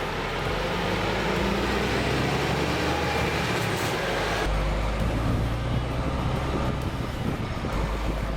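Cab noise of a Scania Super truck's 13-litre straight-six diesel pulling away under an automatic gearbox, engine hum and road noise together; the engine note changes about four and a half seconds in.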